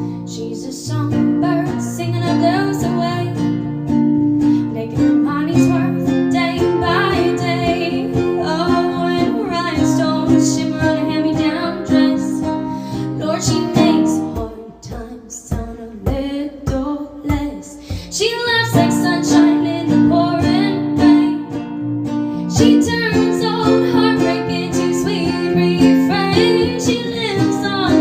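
A woman singing a country song over acoustic guitar strumming. About halfway through the voice drops out for a few seconds and the guitar plays more sparsely, then the singing comes back.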